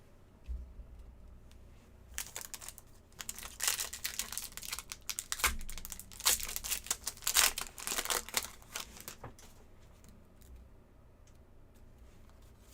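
Foil trading-card pack wrapper being crinkled and torn open, a run of crackling rustles lasting several seconds, then fainter handling.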